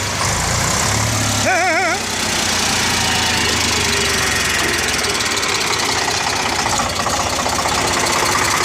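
Eicher 368 tractor's diesel engine idling steadily with an even, rhythmic knock. A brief warbling tone sounds about one and a half seconds in.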